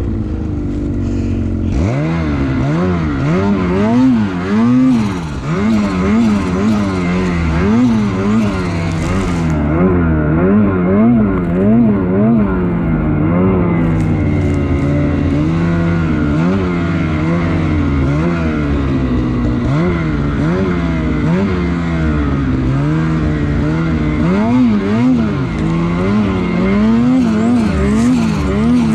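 Lynx Shredder snowmobile's two-stroke engine being ridden hard, revving up and down over and over with quick throttle blips. There are a few steadier stretches in between.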